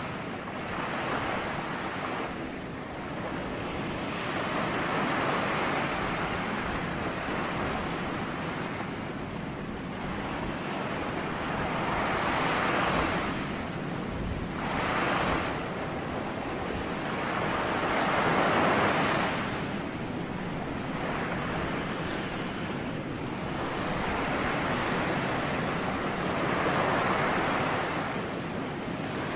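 Ocean waves breaking and washing up a shore, the hiss of surf swelling and falling back every few seconds.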